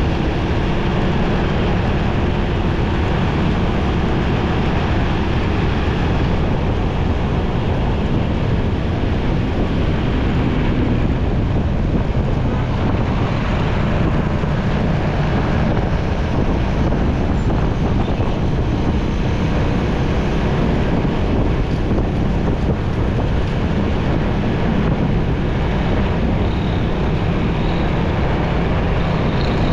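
Wind rushing over the microphone of a motorcycle on the move, with its engine and the road traffic around it underneath as a steady rumble.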